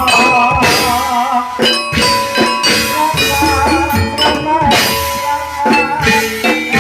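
Javanese Jathilan gamelan music played loud through a sound system: regular drum and metallophone strikes under a wavering melody line, with rattling percussion.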